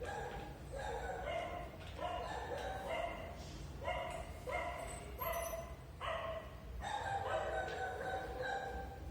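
An animal calling over and over: short pitched cries about one a second, then a longer drawn-out call near the end.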